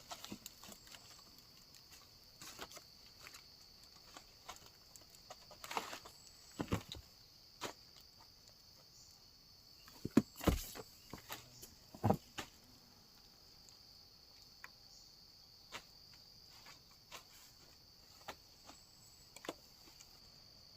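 A steady, high-pitched insect chorus in the forest, with scattered sharp clicks and knocks, several of them clustered about six to seven seconds in and again around ten to twelve seconds.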